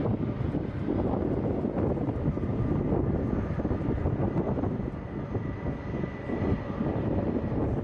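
Jet airliner's engines running, a steady deep rumble with a faint high whine over it.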